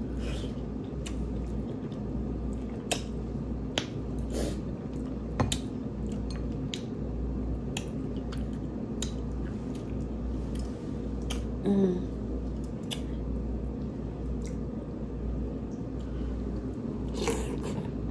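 Close-up chewing and biting of a seafood boil, mostly king crab, with wet mouth and squishing sounds and irregular sharp clicks and taps scattered throughout. A steady low hum runs underneath.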